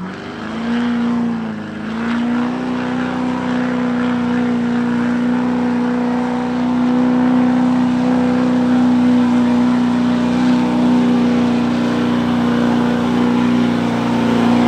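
Chevy diesel pickup truck's engine revving up and held at high rpm under load as it pulls the sled, with a brief dip in revs about a second and a half in.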